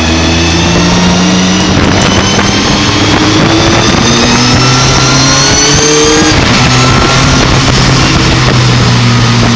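Racing pickup truck's engine running hard under load, its pitch climbing steadily, then dropping at a gear change about six seconds in and running on at a steadier pitch.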